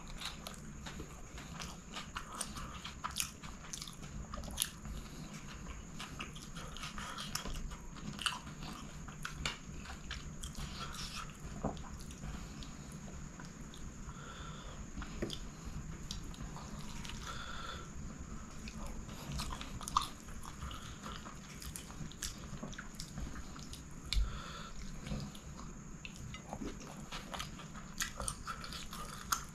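Close-miked chewing and mouth sounds of a man eating chicken kottu roti by hand: a run of irregular small wet clicks and crunches.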